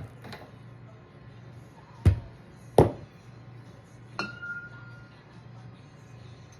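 Glassware being handled on a counter: two sharp knocks about two seconds in, then a lighter clink with a short ringing tone a little later, over a low steady hum.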